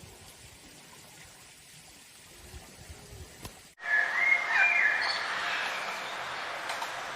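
Quiet at first, then an abrupt cut about four seconds in to chirping animal calls, whistle-like and high, over a steady hiss.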